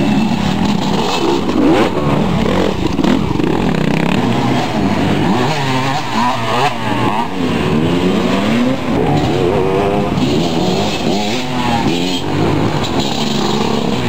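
Several motocross bikes' engines revving, their pitch repeatedly rising and falling and overlapping as they accelerate and shift around the track.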